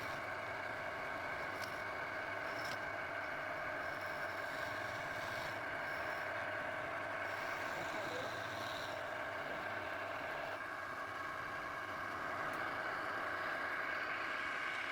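A steady machine whir that holds level throughout, with a few faint clicks.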